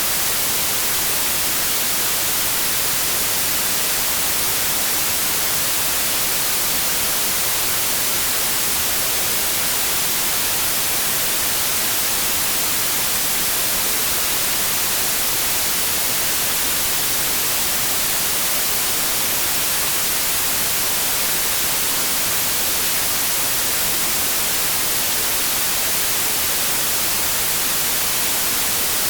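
Steady synthetic white noise: even, unchanging hiss, brightest in the high frequencies.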